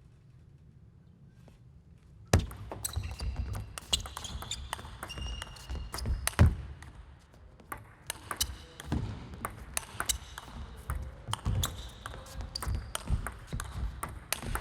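Table tennis arena crowd: after a quiet moment, spectators burst into dense, irregular clapping and banging of noisemakers about two seconds in, a rapid run of sharp claps and low thumps that keeps going.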